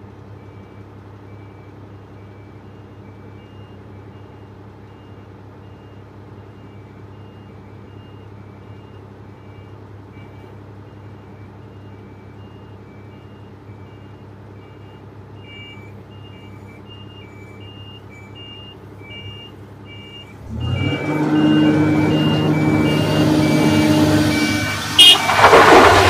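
Diesel engine of a Komatsu PC350LC hydraulic excavator running steadily, with a faint repeating beep alarm. About 20 seconds in the engine revs up much louder under load, and near the end a loud, harsh noise breaks in.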